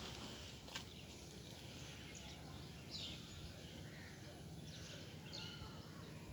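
Faint, scattered short high chirps from birds over a steady low hum, with one light click about a second in.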